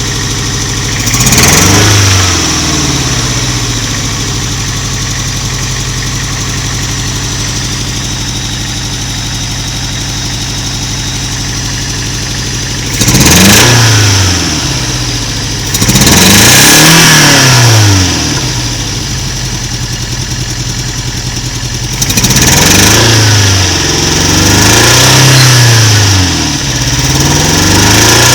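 Toyota MR2 Mk1 engine idling roughly and being revved about six times, a few revs held for a second or two before dropping back to idle. The rough idle is the sign of a misfire, which the owner takes for one cylinder not working.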